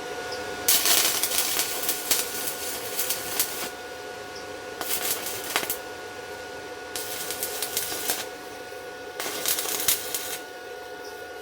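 Stick-welding arc from a 7018 electrode crackling and sizzling in four bursts: one of about three seconds, then three of about a second each, over a steady faint hum.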